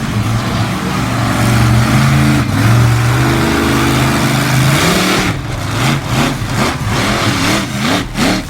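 Monster truck engine running hard at steady high revs, then revved up and down in a quick series of blips through the second half.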